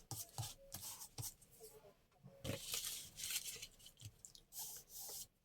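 Paper and craft materials being handled: quiet, irregular rustling and crinkling with a few light taps.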